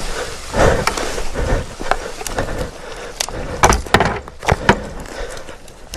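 Footsteps scrambling over dirt and brush, with irregular crunches, scuffs and knocks several times a second and no steady tone.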